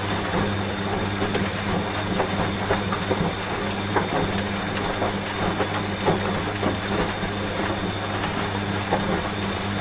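Steady rain with drops pattering, mixed with a washing machine running, whose motor gives a steady low hum.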